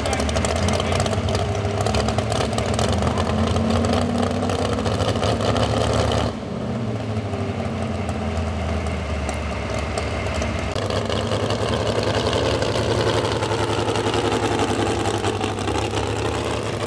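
Modified 4x4 pulling truck's engine running loud and steady during a pull. The sound drops and changes abruptly about six seconds in, and the pitch rises slightly later on.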